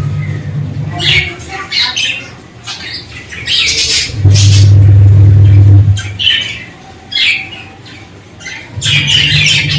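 A flock of budgerigars chattering and squawking in quick, high, scratchy calls. A loud low hum comes and goes under them, strongest in the middle.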